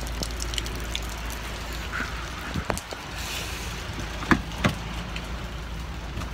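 Steady rain and wind noise on a phone microphone while running through the rain, with a low rumble. A few sharp knocks come between about two and a half and five seconds in.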